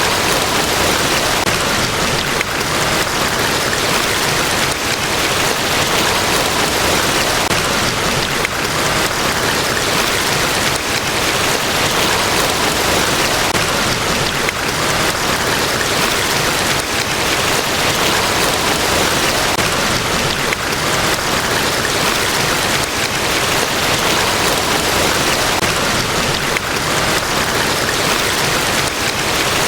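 Large waterfall, Niagara Falls, rushing steadily: a dense, even wash of falling water with no breaks or changes.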